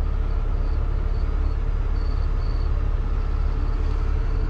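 Heavy-duty tow truck's diesel engine running at a steady low rumble, with crickets chirping in short high-pitched trills over it.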